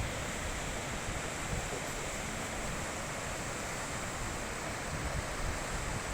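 Mountain river rushing over rocks, a steady, even rush of flowing water, with a gusting low rumble that sounds like wind on the microphone.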